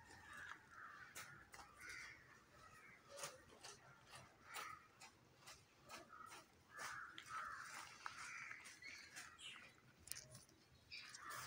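Faint bird calls, coming in several bouts, with scattered light clicks.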